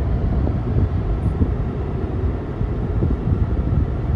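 Car on the road: steady low rumble of tyres and engine heard from inside the moving vehicle.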